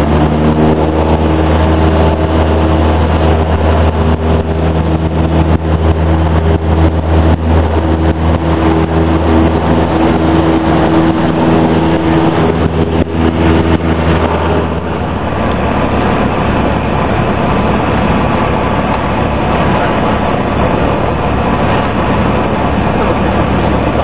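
Light Cessna's piston engine and propeller droning steadily, heard inside the cockpit. About fifteen seconds in, the even hum gives way to a rougher, less pitched rumble.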